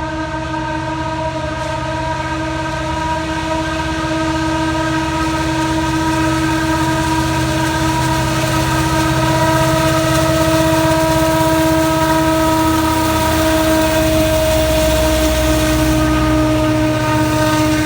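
Norfolk Southern freight train's EMD diesel locomotives going by, the engines rumbling low under a steady, held howl that grows slightly louder.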